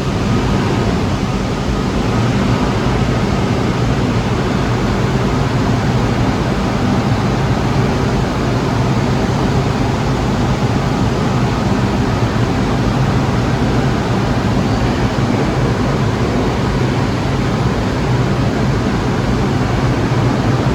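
New York City subway train running along the platform: a steady, loud rumble of wheels and motors.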